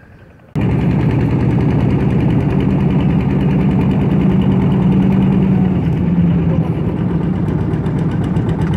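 Boat engine running loud and steady with a fast, even pulsing beat. It cuts in abruptly about half a second in.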